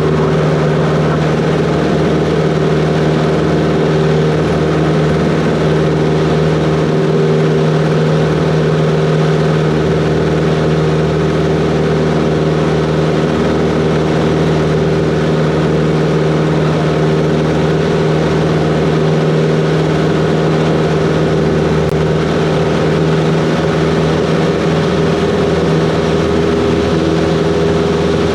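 Cessna 140's piston engine and propeller running at a steady drone, with no change in pitch.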